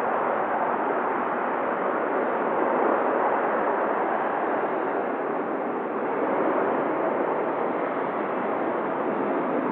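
Steady hiss of static from an airband radio feed between transmissions, narrow and thin like a radio channel.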